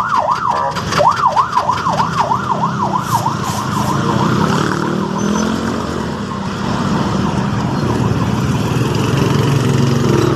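A loud warbling electronic alarm tone, rising and falling about four times a second, sounds for the first couple of seconds and stops. After a few clicks, the Kymco Super scooter's engine catches about four seconds in, revs briefly and then runs steadily.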